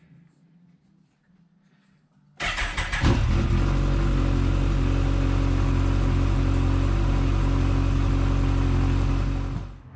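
Kawasaki ZZR 1400's inline-four engine started on the starter about two and a half seconds in. It catches, runs at a steady idle for about six seconds, then is switched off just before the end, run briefly to warm the oil before draining it.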